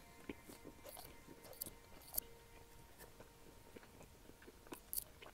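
Faint close-up chewing of soft fried dough dipped in Nutella, with scattered small mouth clicks and a few sharper ones about two seconds in and near the end.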